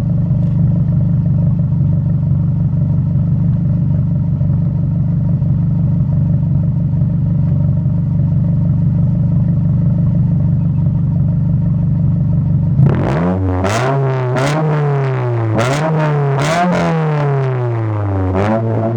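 2009 Scion tC's 2.4-litre four-cylinder through a Spec D cat-back exhaust whose muffler has lost its fiberglass packing, making it louder. It idles steadily, then about two-thirds through it is blipped in a quick series of revs, the pitch rising and falling with each one.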